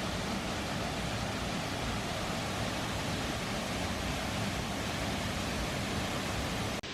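Steady, dense rushing of a waterfall, with a brief sharp drop near the end.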